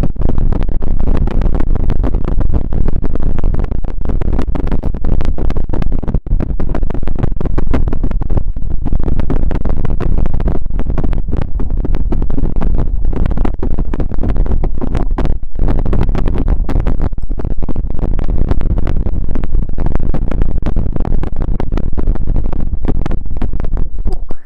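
Loud, dense rustling and crackling scratching held close against the microphone, steady and unbroken, dropping away at the very end.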